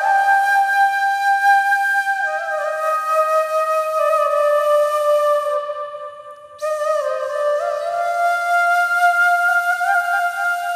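Solo flute playing a slow melody of long held notes with small ornamental bends, with a brief pause a little past halfway.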